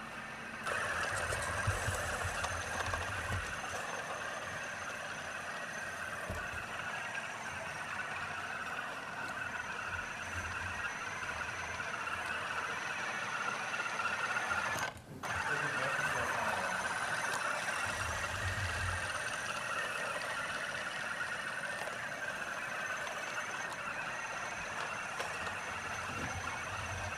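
Roomba robot vacuum running, a steady whir of its vacuum motor and brushes that starts about a second in, cuts out briefly near the middle and then runs on.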